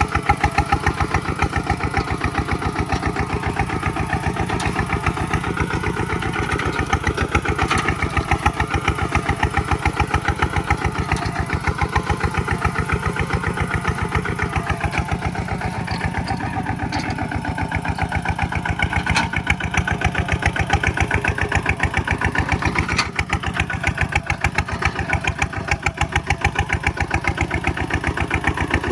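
Kubota single-cylinder diesel tractor engine running steadily with an even, rapid beat.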